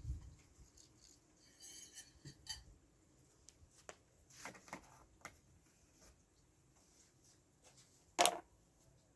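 Scattered light clinks and knocks of dishes and utensils being handled, with one sharper knock near the end.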